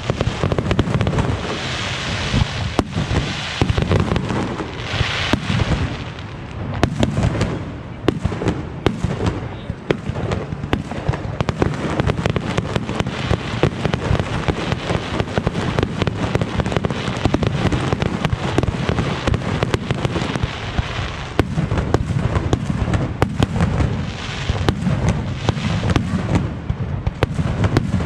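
Fireworks display: a dense, continuous run of bangs and crackles, many shots packed close together over a low rumble.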